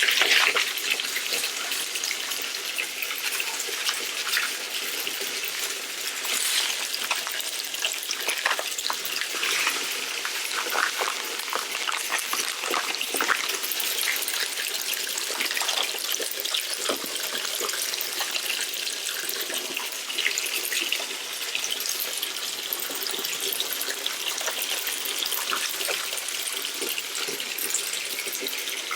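Steady rush of running water, with scattered small clicks and clatters throughout.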